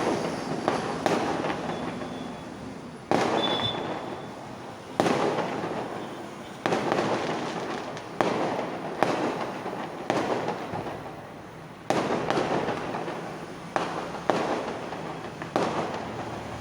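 Fireworks going off in a rapid series of sharp bangs, one every second or two. Each bang is followed by a dense crackle that fades away.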